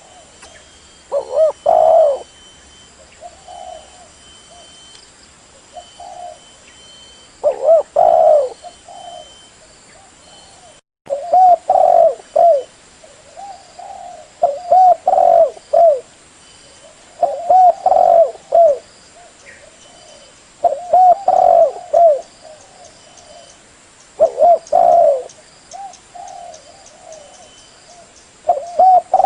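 Spotted dove (tekukur) cooing as a lure call: short low phrases of a few notes, repeated every few seconds, about eight phrases in all.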